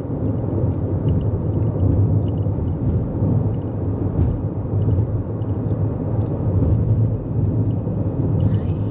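Steady road noise of a 2024 Toyota Corolla Cross cruising on the highway: a low, even tyre and road rumble with faint small ticks.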